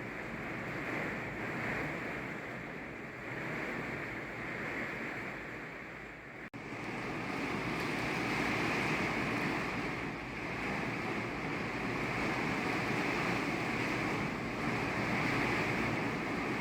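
Steady rain falling, an even hiss of water. There is a brief break about six and a half seconds in, after which the rain continues a little louder.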